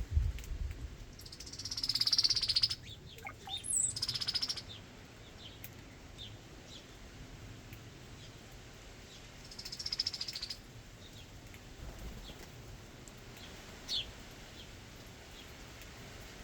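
Backyard birds calling at a feeder: three harsh, buzzy calls, the first about a second in and the last near the tenth second, with short scattered chirps and a quick falling chip near the end. A low thump sounds at the very start.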